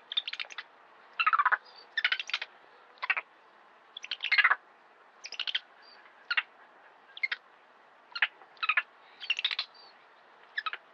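Bird chirping: about a dozen short, sharp chirps, some in quick clusters, coming irregularly about once a second.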